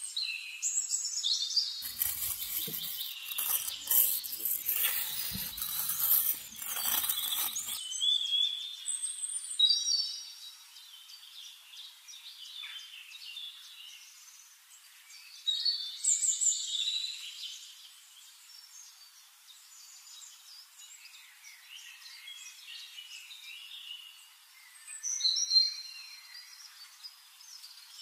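Small birds chirping and singing, short whistled calls repeating throughout, over a faint outdoor ambience. From about two seconds in to about eight seconds a louder rustling noise runs underneath.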